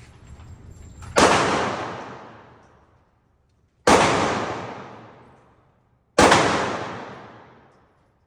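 Three handgun shots, about two and a half seconds apart, each a sharp crack followed by a long fading echo.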